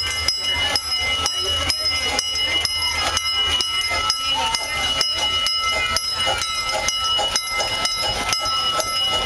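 Miniature steam train running, with a steady rhythmic clatter about three times a second over a low rumble, and faint voices.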